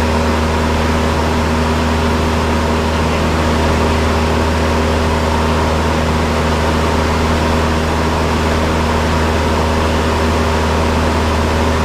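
Cessna 172's piston engine and propeller heard inside the cabin, a steady even drone with a hum of engine tones under the noise.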